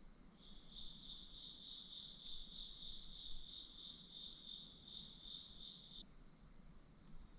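Faint, high-pitched insect trilling, such as crickets. One steady trill runs throughout, and a second, pulsing trill joins shortly after the start and stops about a second before the end.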